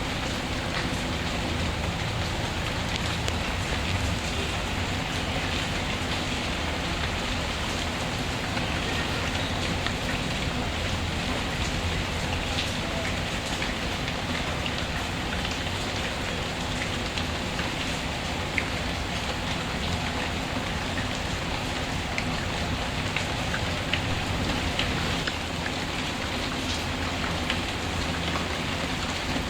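Steady rain falling, with scattered small sharp crackles from a wood fire in a fireplace.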